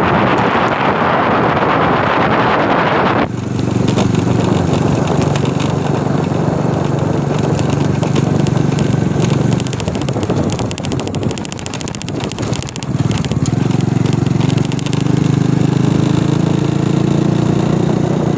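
A motor vehicle engine running, its pitch dipping in the middle and rising slowly near the end. A loud rushing noise fills the first three seconds and cuts off sharply.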